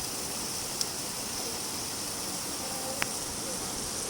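Steady rain falling, an even hiss, with two sharp ticks about two seconds apart.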